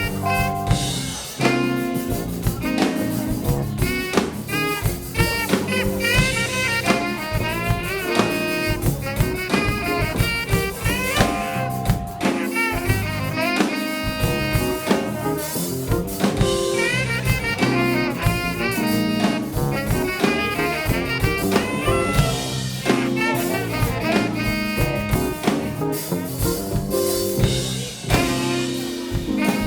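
Live jazz band playing: saxophone lead over drum kit, bass and piano, with a steady beat.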